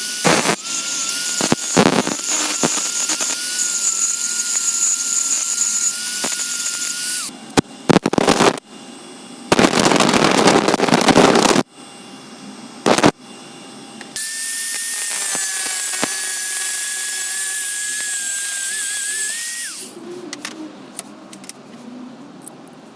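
Angle-grinder-driven belt grinder running with a steady high whine that cuts off about seven seconds in. A few knocks and a couple of seconds of loud, harsh noise follow. From about fourteen seconds in it runs again at a slightly higher pitch and cuts off near twenty seconds.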